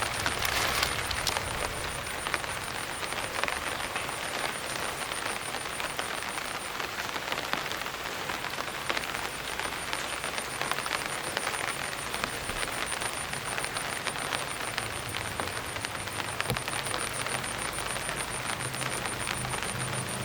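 Heavy rain falling: a steady hiss crowded with fine drop ticks. A thin, high, rapidly pulsing tone runs above it, and a low hum comes in near the end.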